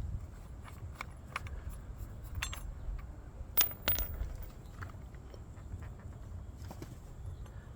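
Light metallic clinks and clicks of the edger's loosened blade nut, washers and socket tool being handled, with two sharper clicks about three and a half and four seconds in.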